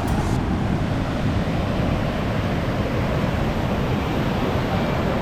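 Sea surf washing on the shore, with wind buffeting the microphone in a steady low rumble.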